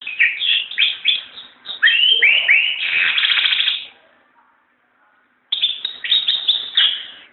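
White-eye singing: a fast twittering run of short, sweeping notes lasting about four seconds, then a pause of about a second and a half, then another run.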